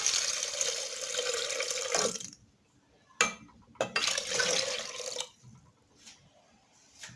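Shrimp stock being poured into a cooking pot: a steady pour that stops about two seconds in, a short knock, then a second, shorter pour.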